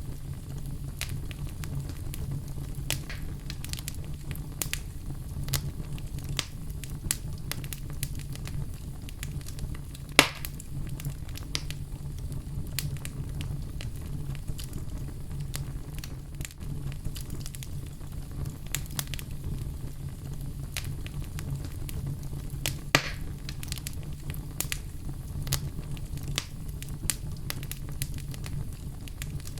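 Wood fire in a fireplace crackling, with frequent small snaps and two louder pops, about a third of the way in and about three quarters through, over a steady low rumble.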